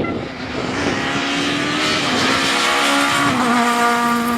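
Rally car passing at speed on a closed special stage, its engine revving hard and growing louder to a peak about two to three seconds in, with the engine note dropping and settling just after as it moves away.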